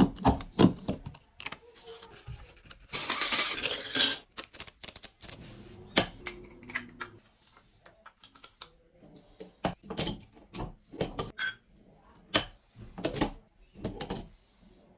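Hand-operated 2x2 badge making machine and its metal badge parts being handled: a run of separate sharp clicks and light metal clatter, with a longer, louder rushing burst about three seconds in.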